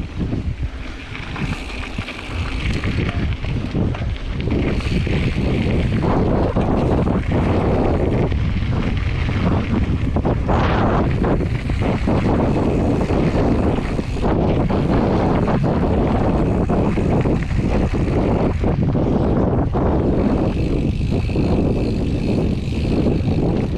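A mountain bike riding a dirt trail: wind buffeting the microphone over the noise of tyres on dirt, with many small knocks and rattles from the bike. The noise rises about four seconds in and then holds steady.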